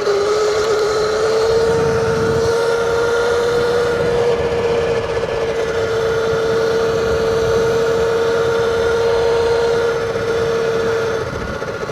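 Surron electric dirt bike's motor and drivetrain whining at a steady pitch while cruising, over a steady wash of wind and tyre noise. The whine rises a little at the start, then holds, and cuts out near the end as the level drops.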